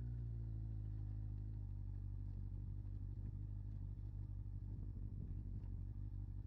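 Motorcycle engine running at a low, steady idle, heard faintly. It turns into a rougher, fluttering rumble about a second and a half in.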